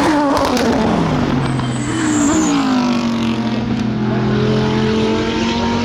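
SUPER GT race car engines. One engine's note falls steeply over the first second and a half, then several engines hold steady notes.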